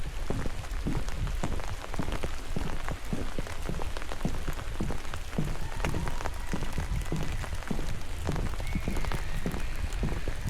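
Rain falling in a forest, with many close, irregular drop hits over a steady low rumble.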